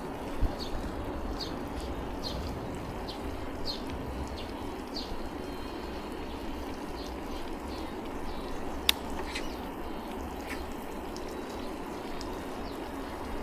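Bicycle tyres rushing on wet pavement with wind on the microphone, a steady hiss. Short high chirps repeat about twice a second for the first few seconds, then come only now and then; a sharp click sounds about nine seconds in.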